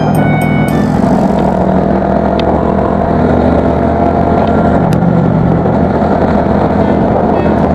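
Honda Super Cub's single-cylinder four-stroke engine running through a BEAMS aftermarket muffler while riding at a steady speed, a steady exhaust note with road noise.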